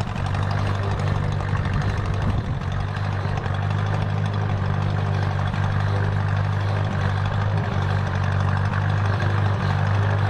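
Tractor engine running steadily at a constant speed, close by, with no revving.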